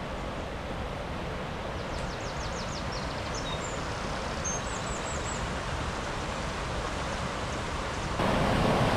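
Steady rushing of the River Dove flowing over a weir, with a small bird chirping a few times partway through.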